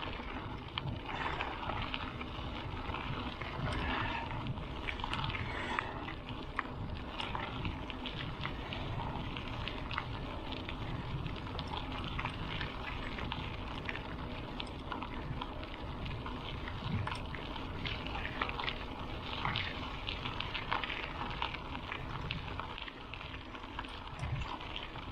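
Bicycle coasting on a gravel road: wind buffeting the helmet-mounted microphone and the tyres rolling over loose stones with a steady, irregular crackle.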